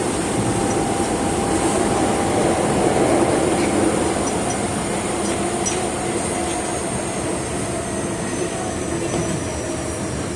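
Osaka Metro 22 series subway train with a GTO-thyristor VVVF inverter, heard from on board while running through the tunnel. A steady rumble of wheels and motors carries thin high tones that slowly sink in pitch, with a few faint ticks midway.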